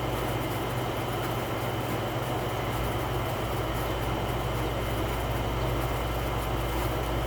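Steady low hum with a constant even hiss, unchanging throughout.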